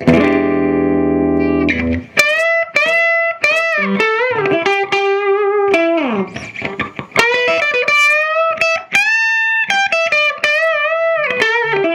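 Overdriven electric guitar played through a 15-watt cathode-biased EL84 valve amp on its normal channel, from a Strat's bridge humbucker with the volume cranked. A chord rings for about two seconds, then a hard-rock lead line of single notes with string bends and a downward slide about halfway through.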